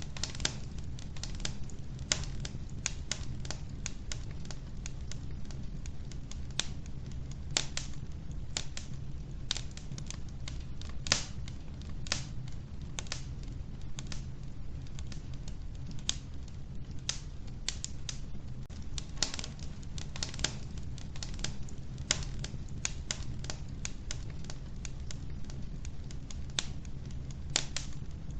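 Wood fire burning in a wood-burning stove: irregular sharp crackles and pops from the burning logs, several a second, over a steady low rumble of the flames.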